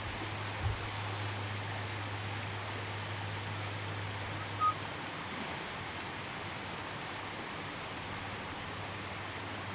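Steady outdoor background hiss with a constant low hum; a faint click comes about a second in and a single short, high beep near the middle. No shot is fired.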